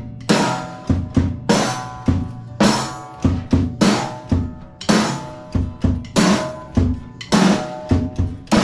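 A child playing a drum kit with sticks: cymbal crashes that ring on, about one a second, with drum thumps in between, in a loose, uneven beat.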